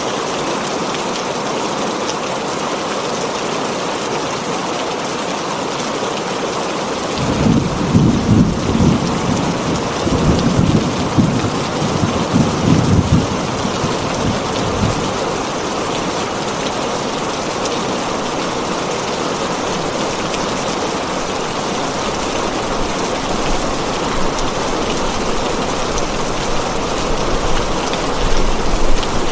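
Heavy rain falling steadily on a tin roof, an even hiss, with rolling thunder rumbling for several seconds about a quarter of the way in and again near the end.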